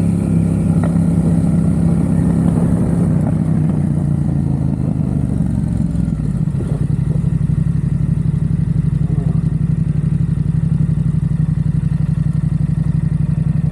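Yamaha XSR700's 689 cc parallel-twin engine through a Mivv aftermarket exhaust, its note falling over a few seconds as the bike slows, then settling into a steady, lower, pulsing run for the second half.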